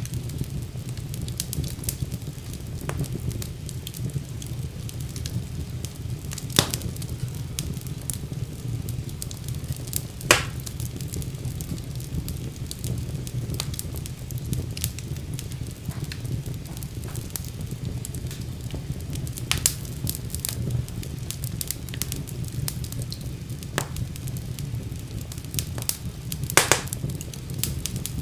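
Wood fire burning in a fireplace: a steady low rumble of the flames with frequent crackles and a few sharper pops.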